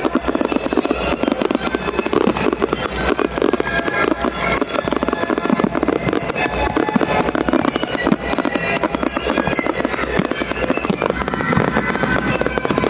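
Fireworks going off in a dense, continuous barrage of rapid cracks and bangs with no pause.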